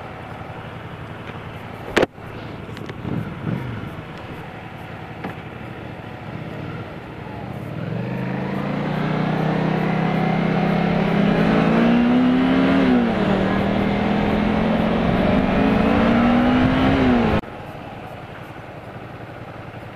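Motorcycle engine pulling away and accelerating, its pitch climbing, dipping once partway through, then climbing again before it cuts off suddenly. Before that there is a low steady rumble and a single sharp knock about two seconds in.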